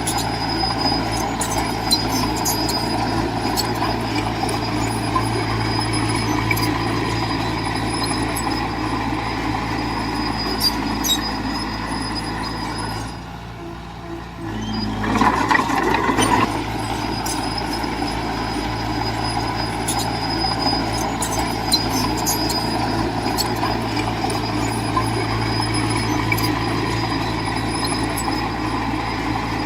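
Diesel engine of heavy earthmoving machinery running steadily under load, with scattered sharp metallic clicks. About halfway through the sound drops away for a moment, then returns with a short louder surge.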